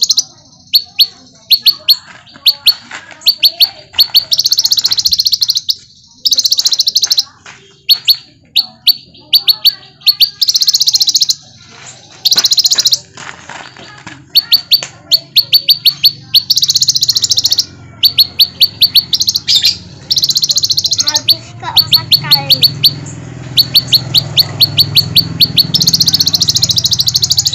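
Konin (small minivet) singing energetically: rapid runs of short, high chirps, several a second, alternating with harsh, buzzy bursts about a second long. This is a lure recording used to prompt caged konin to sing.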